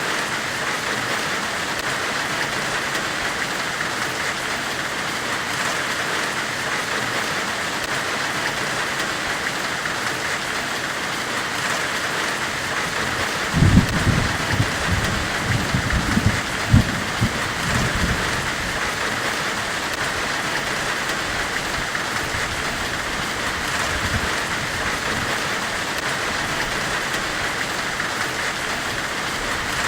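Steady, even hiss of a forge weld, heard as white noise. A cluster of low thuds comes between about 14 and 18 seconds in.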